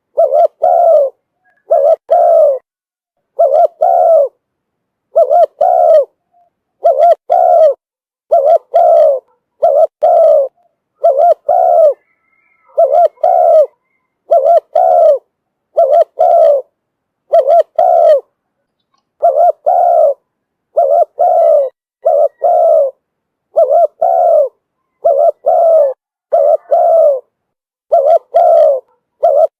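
Spotted dove cooing as a lure call for drawing in wild doves: low, slightly falling coos in pairs, repeating about every second and a half with short silences between.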